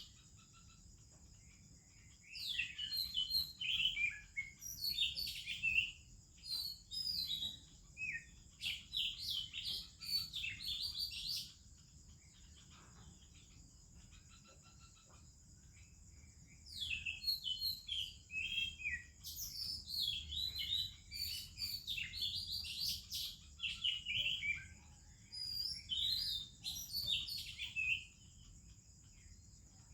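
Oriental magpie-robin singing a rich, varied song of rapid whistles and warbles, in two long bouts with a pause of several seconds between them, over a steady high-pitched hiss.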